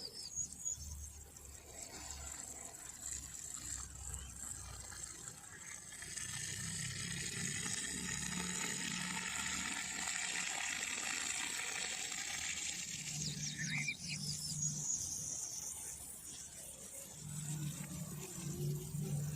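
Running water with birds calling. The rush of water swells from about six seconds in, and a quick high bird trill comes about two-thirds of the way through.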